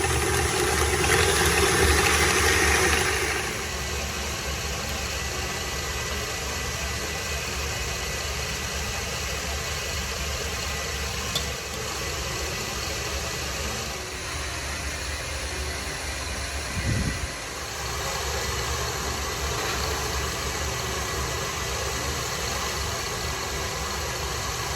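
KitchenAid stand mixer running on high with the wire whisk, whipping heavy cream and powdered sugar. It is louder for the first few seconds, and there is a brief low knock about seventeen seconds in. The room-temperature cream is over-whipping and turning to butter.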